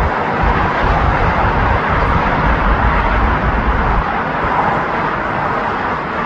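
Jet airliner engines running with a steady, loud roar.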